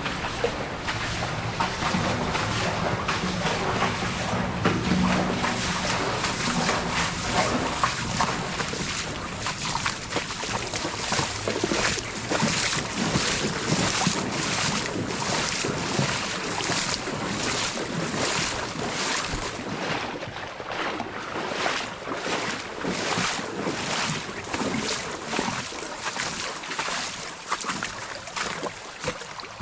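Steady rush of a fast-flowing creek, with footsteps at about two steps a second.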